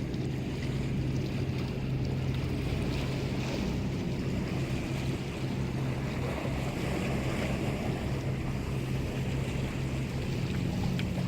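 Boat engine running with a steady low hum, under wind and sea noise.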